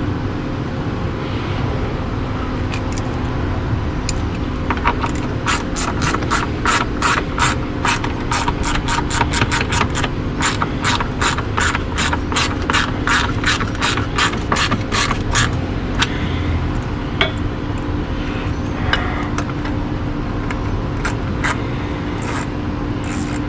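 Socket ratchet wrench clicking steadily, about three to four clicks a second, as a 12 mm intake-grate bolt is run in. The clicking stops about two-thirds of the way through, and only scattered clicks follow over a steady background hum.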